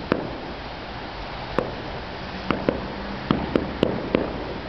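Aerial fireworks shells bursting in the distance: about eight sharp bangs at uneven intervals, coming faster in the second half, over a steady background hiss.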